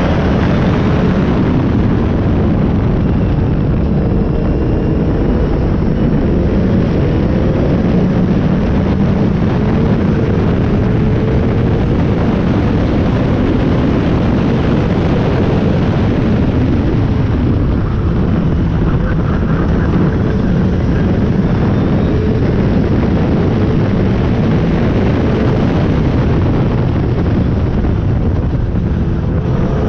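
Toyota Starlet's engine and exhaust running under a loud, steady rush of wind buffeting a camera mounted on its bumper while the car is driven.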